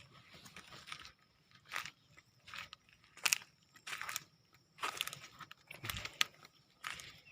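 Footsteps crunching and rustling through dry leaves and undergrowth, in irregular bursts.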